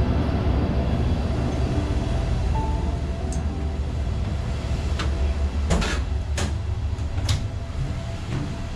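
Third-class railway carriage of a Thai ordinary passenger train heard from inside while running: a steady low rumble, with a few sharp knocks from the running gear about five to seven seconds in.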